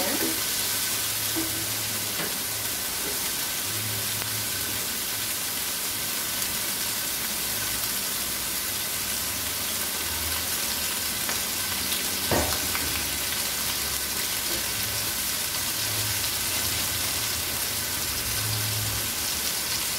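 Oil sizzling steadily in a wok as chopped chilies, shallots, garlic and spring onion fry until fragrant. A single short knock sounds about twelve seconds in.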